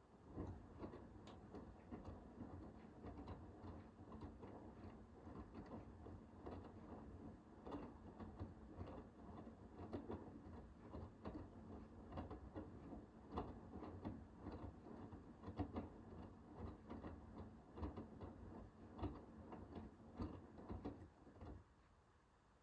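Hoover H-WASH 500 washing machine drum turning the wet wash load: a low motor hum with a constant jumble of soft, irregular knocks and swishes as the laundry tumbles. It starts suddenly and stops about 21 seconds in, one of the turn-and-rest pulses of the wash phase.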